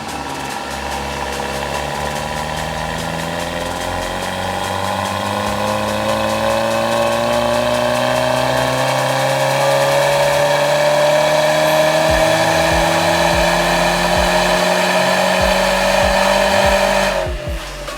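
Infiniti Q30 2.0t's turbocharged four-cylinder engine, breathing through a STONE full exhaust system, in one long full-throttle pull, typical of a dyno run. The revs rise slowly and steadily, with no gear change, and cut off suddenly near the end.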